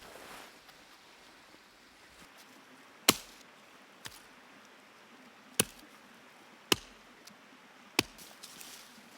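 Wood being chopped: four sharp, irregularly spaced strikes, with one softer knock between the first two, over the faint steady wash of a creek.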